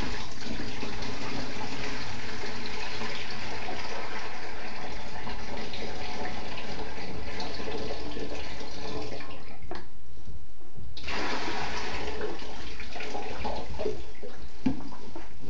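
Water pouring steadily into a small container for about ten seconds, stopping briefly, then pouring again.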